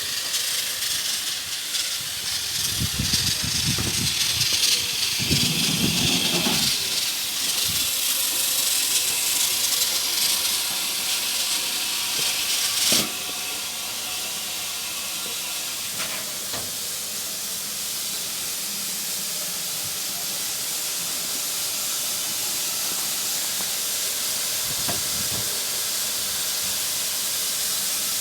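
Steam locomotive letting off steam: a loud, steady hiss that cuts off suddenly about 13 seconds in, leaving a quieter continuous hiss. Low rumbles come through a few seconds in.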